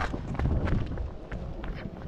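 Strong wind buffeting the microphone, with irregular footsteps and crackling on the ground, busiest in the first second.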